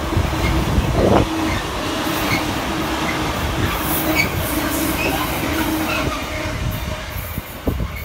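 A train running on the track: a loud, steady rumble of wheels on rail with a hum and brief high squeaks from the wheels, easing off near the end.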